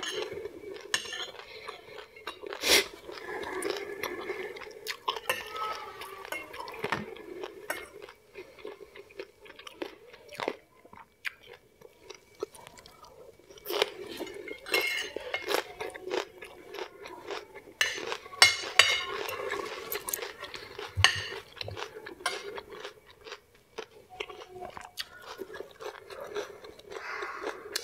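Close-miked chewing and mouth sounds of a person eating, with metal cutlery clicking and scraping on a ceramic plate.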